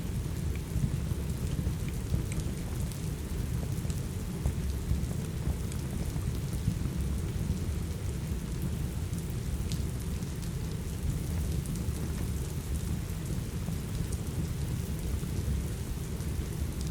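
Steady rain with a heavy low rumble, with a few faint, sharp pops and crackles from a wood fire scattered through it.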